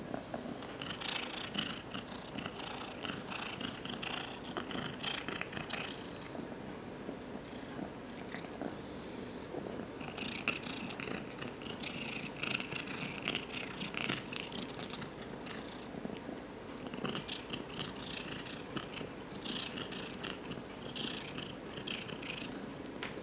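A domestic cat chewing and crunching on a treat in spells of quick clicky bites with short pauses, over a steady contented purr.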